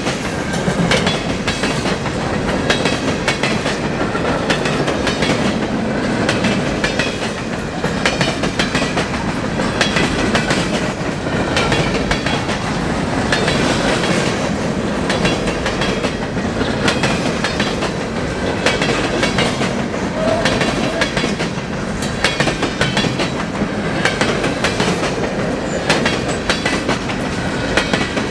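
Freight cars of a mixed freight train rolling past, wheels clicking rhythmically over the rail joints over a steady loud rumble.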